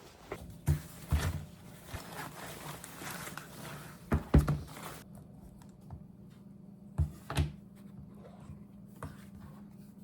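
Scattered knocks and thuds of things being handled and set down, over a steady hiss that cuts off suddenly about halfway through, leaving a low hum.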